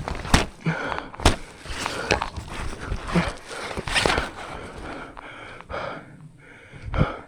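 Footsteps crunching through snow, a sharp step roughly every half second to second, thinning out toward the end.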